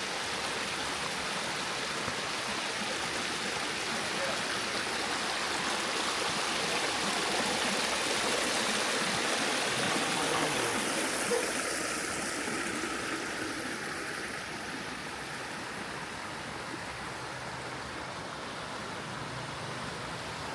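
Water of a small mountain stream rushing steadily over rock cascades, a little louder around the middle.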